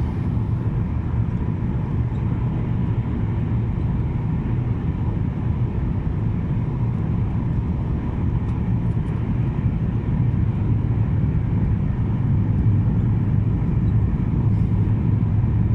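Steady cabin noise inside a Boeing 737-800 airliner during descent: the low rumble of the engines and rushing air, with a faint steady tone above it.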